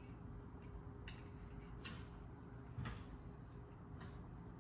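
A few faint, separate clicks and light taps, about a second apart, from small engine parts being handled during a teardown, over a steady low hum.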